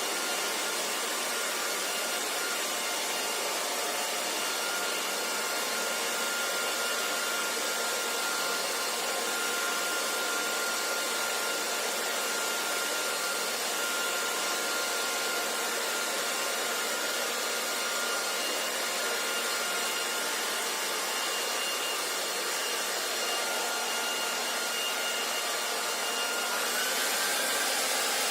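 Hair dryer running continuously: a steady rush of blown air with a faint steady whine. Near the end it gets slightly louder and brighter, and the whine steps up a little in pitch.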